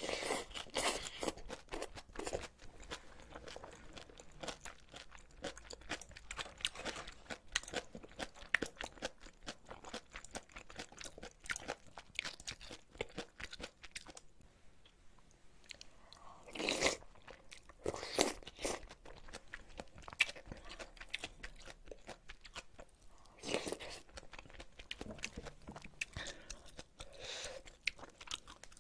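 Close-miked chewing and crunching of ramen noodles with bean sprouts and kimchi: a steady run of small crisp crunches, with a few louder ones in the second half.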